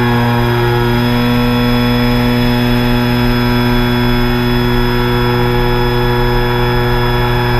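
Quadcopter's electric motors and propellers humming at a steady pitch, with a thin high whine over it, the drone holding a steady throttle.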